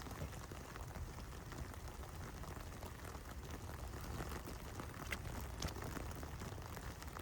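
Heavy rain falling steadily: a dense patter of drops over a continuous hiss, with a couple of sharper drop hits about five seconds in.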